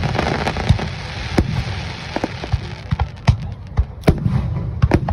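Aerial fireworks bursting: a rapid, irregular series of sharp bangs and crackles over a low rumble, with a dense crackling hiss through the first couple of seconds.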